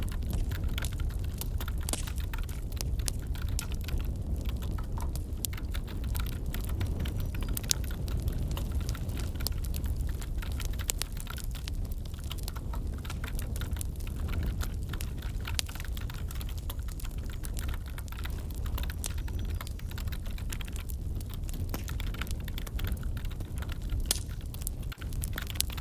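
Wood fire crackling in a fireplace over a steady low rumble, with irregular sharp pops, mixed with the clicking of a computer keyboard being typed on.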